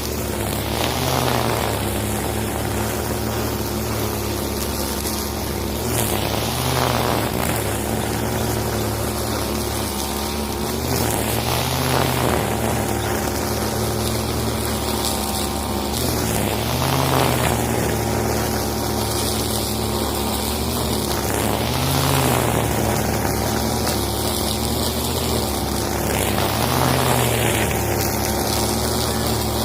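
Husqvarna 541 two-stroke brush cutter running at working speed while clearing undergrowth, its note swelling and easing about every five seconds.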